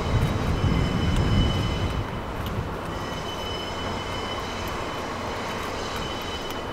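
Slow-moving train, the Oya 31 inspection car pushed along the track, with a low rolling rumble. The rumble is louder for about the first two seconds, then settles to a quieter, steady run.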